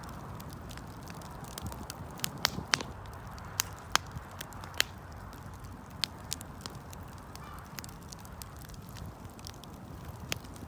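Wood fire crackling: irregular sharp pops and snaps over a steady low rumble, with a run of louder pops a few seconds in.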